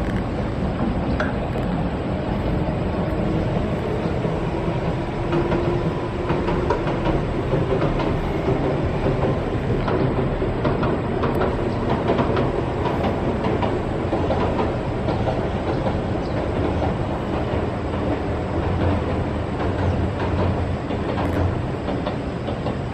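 A two-car Oigawa Railway electric train running across a long steel girder bridge: a continuous rolling noise with wheel clicks over the rail joints.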